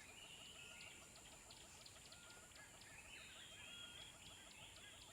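Faint nature-sound background of birds calling: many short chirps repeating quickly, with a few brief whistled notes.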